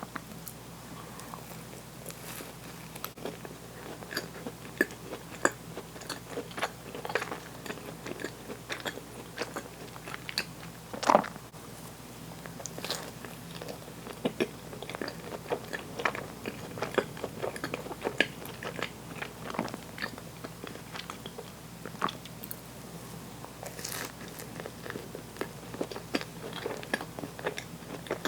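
Close-up biting and chewing of a cookie sandwich ice cream: many small crisp crunches from the cookie, with one louder crunch about eleven seconds in.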